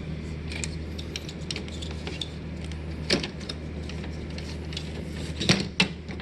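Clicks, knocks and light rattles of an air conditioner's plastic panel and filter being handled, with louder knocks about three seconds in and twice near the end, over a steady low hum.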